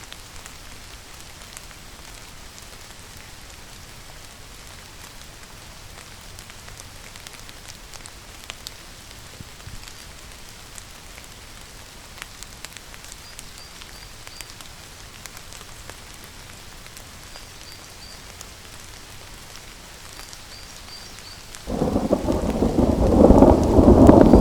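Steady rainfall with scattered drips. Near the end a loud thunderclap breaks in suddenly and rumbles on.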